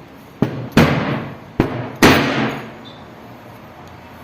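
Four sharp knocks of metal parts being handled: the opened fan motor's pieces set down and moved about, two of the knocks followed by a short clattering rattle.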